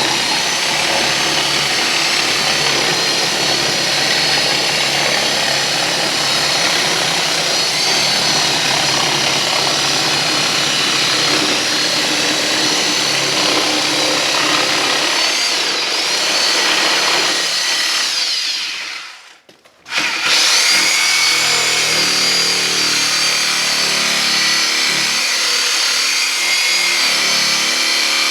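Electric power tool running steadily with a high whine. It dies away almost to nothing about two-thirds of the way through, then starts up again at full level.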